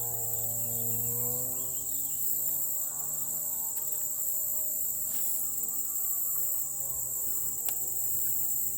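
Distant small engine droning, its pitch slowly rising and falling, over a steady high chorus of insects. The engine sounds like model aeroplanes racing or a chainsaw cutting wood.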